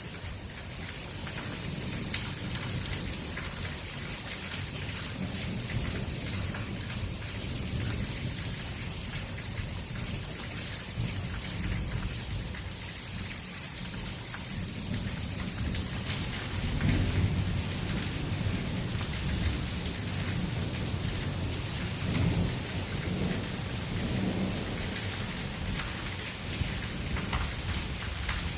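Heavy thunderstorm rain pouring steadily, with thunder rumbling low under it, strongest about halfway through and again a few seconds later.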